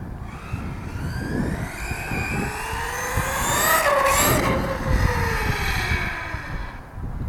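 Brushless motor of a 1/8-scale RC truck, run by a Castle Mamba X ESC, whining as the truck accelerates, rising in pitch to a peak about four seconds in and then falling away, over the rumble of the tyres and drivetrain.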